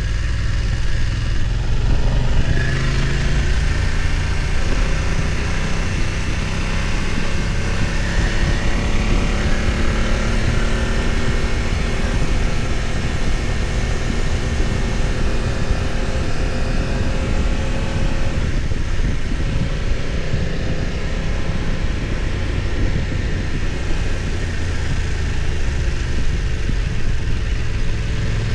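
BMW F900 XR's parallel-twin engine running as the bike is ridden, its revs rising and falling with the throttle, over a steady low rumble.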